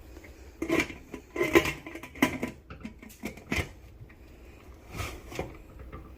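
Metal pressure cooker being handled on the stove: about six sharp clanks and knocks of the pot and lid against each other and the burner.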